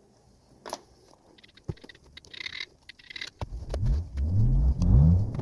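Faint crackling and tearing of guinea fowl skin and feathers being pulled by hand. About three seconds in, a motor vehicle engine revs up in several rising sweeps; this is the loudest sound.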